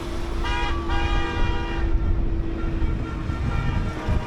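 An air horn sounds one blast of about a second and a half, over the low rumble of passing tractor and truck engines.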